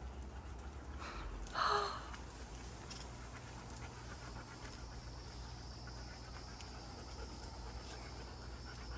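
Golden retriever panting steadily, with one short louder sound about one and a half seconds in.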